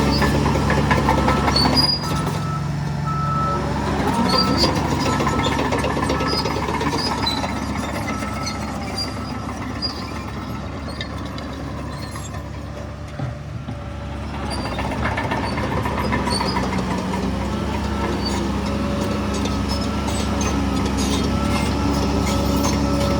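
Heavy diesel earth-moving machinery running under load. The engine drops off sharply about two seconds in, eases lower around the middle, and builds up again toward the end.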